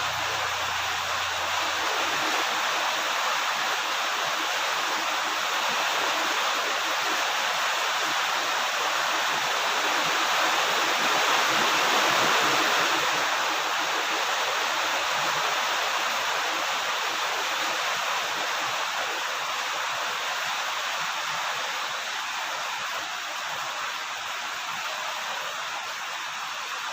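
Steady rain falling, an even hiss that swells slightly midway and eases a little near the end.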